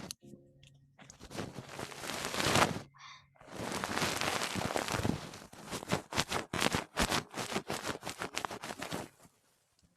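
Close-miked ASMR rustling and scratching: a swelling rush about a second in, then a dense run of crackling scratches that stops about nine seconds in.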